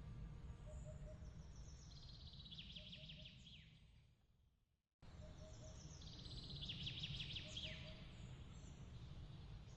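Faint bird chirps and a rapid trill over a low steady rumble. The sound fades to silence about four to five seconds in, then comes back and the same trill repeats.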